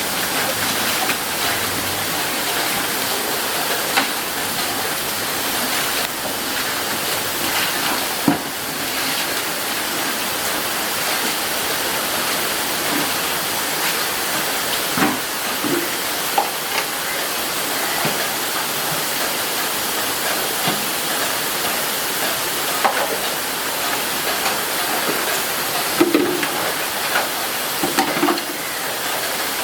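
Steady, heavy rainfall, an even hiss throughout, with a few scattered knocks and clinks.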